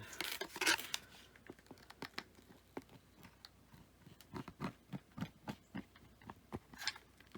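Light, irregular clicks and taps of craft materials being handled, with a brief rustle in the first second and another shortly before the end.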